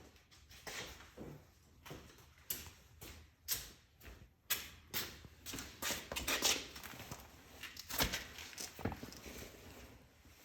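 Irregular clicks, taps and knocks of tools and parts being handled, about a dozen sharp strikes scattered unevenly, the loudest near the middle.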